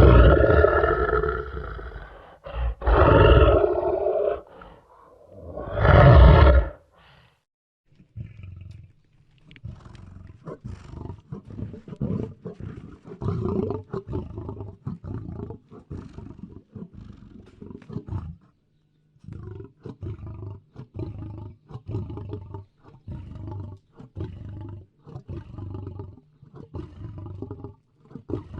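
Lion (Panthera leo) roaring: three loud, long roars in the first seven seconds. These are followed by a long run of shorter, quieter grunting calls, about two a second.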